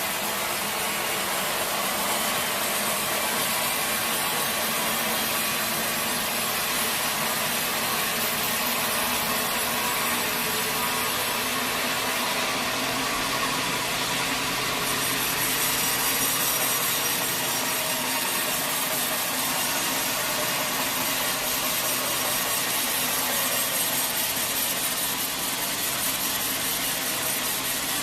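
A sawmill saw cutting through a teak log: a steady, unbroken sawing noise with no pauses.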